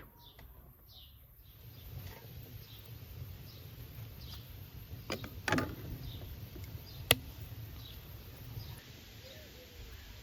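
Small birds chirping again and again, with a few sharp knocks in the middle, the loudest a little after halfway.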